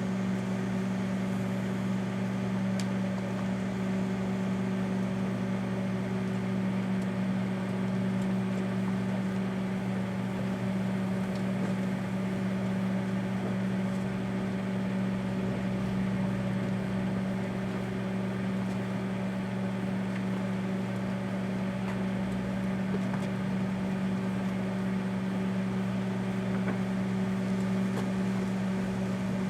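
Daewoo microwave oven running: a steady hum with its fan, unchanging throughout, while it heats a bar of laundry soap.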